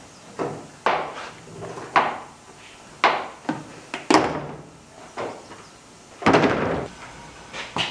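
Hammer blows on the body of a 1995 Chevy Silverado being stripped down: hard bangs at a steady rate of about one a second, each ringing out briefly, with one longer bang about six seconds in.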